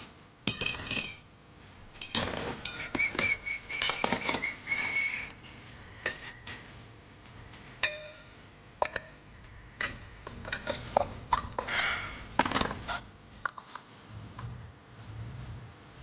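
Irregular metallic clinks, clanks and knocks, like tools or metal parts being handled, with a short high whistle-like tone a few seconds in.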